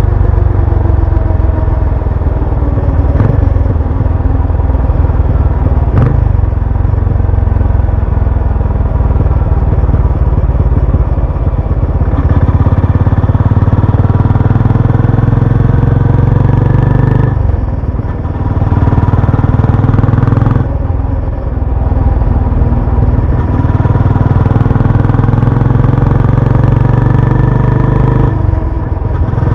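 Benelli Imperiale 400's single-cylinder engine and exhaust pulling under way. The pitch climbs steadily as it accelerates, then briefly drops and picks up again at gear changes, three times in the second half.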